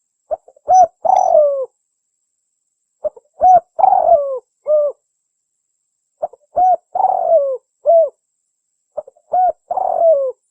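Spotted dove (tekukur) cooing, four repeated phrases about three seconds apart, each a few short coos around a longer falling note.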